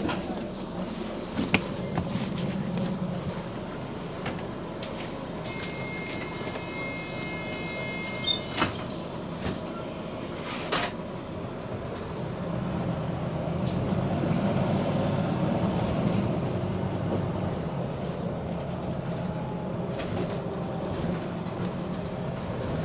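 A bus's diesel engine heard from inside the bus, running and then building up about halfway through as the bus pulls away, with a few sharp knocks and rattles from the body. A steady high tone sounds for about two seconds a few seconds in. The bus has a slight exhaust leak.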